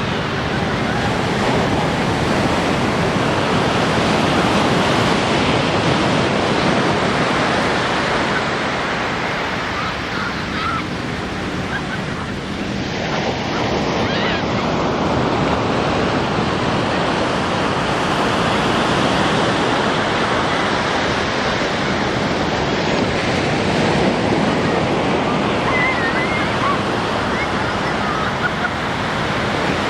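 Ocean surf washing onto the beach: a steady wash of breaking waves that eases for a moment about twelve seconds in, then builds again.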